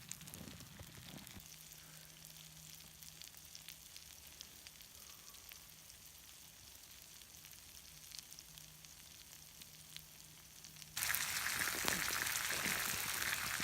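Campfire coals crackling and hissing, with scattered small pops, as bread toasts directly on the embers. About eleven seconds in it abruptly becomes much louder, a dense crackling hiss.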